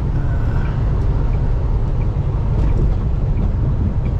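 Semi-truck cab at road speed: the engine and road noise make a steady low rumble, with a turn signal ticking about one and a half times a second.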